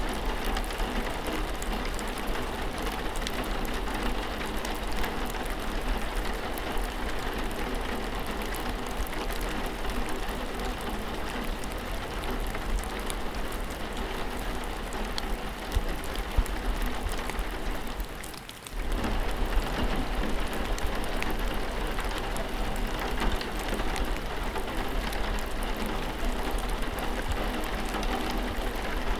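Steady rain falling, heard as an even hiss with a low rumble beneath it. About two-thirds of the way in the sound drops away sharply for under a second and then comes back.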